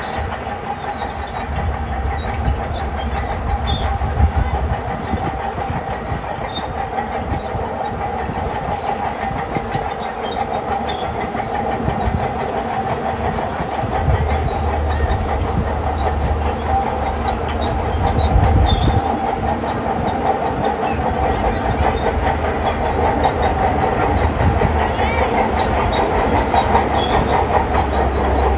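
Shantui crawler bulldozer working: its diesel engine runs steadily under load while the steel tracks clank and clatter. The heavy low rumble swells and eases in stretches as the machine pushes gravel and sand.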